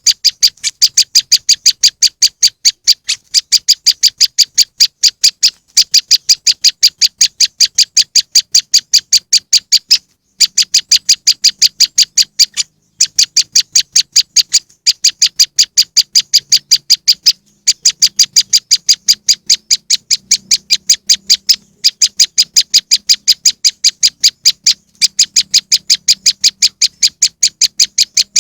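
Looped bird-lure recording of a prenjak lumut (moss wren) calling. It is a rapid, even series of sharp high chirps, about five a second, in long runs broken by brief pauses.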